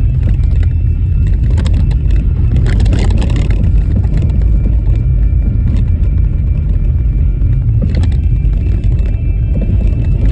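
Car driving over a rough, bumpy snow-covered road: a steady low rumble of tyres and road noise, with clusters of rattles and knocks from the uneven surface a couple of seconds in and again later on.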